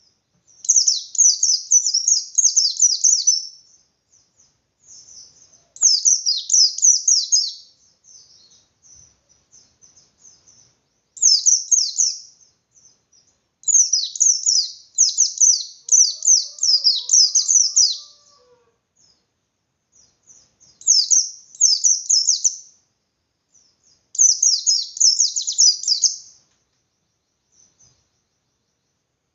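White-eye (pleci) singing its fast, insistent 'ngalas' song in high, rapid twittering bouts of two to four seconds, separated by short pauses. It is the kind of song used as a lure to rouse other white-eyes into answering.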